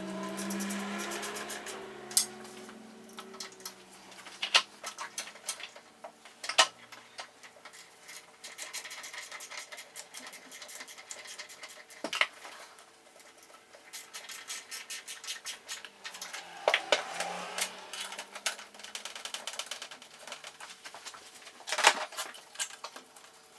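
Hand tools and parts being worked in a car's engine bay: runs of rapid, even clicking and half a dozen sharp metallic knocks spread through.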